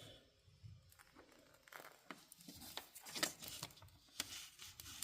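Knife blade splitting the rubber-insulated two-conductor power cord of a hair dryer: faint, irregular scratchy tearing strokes, the strongest about three seconds in and again near the end.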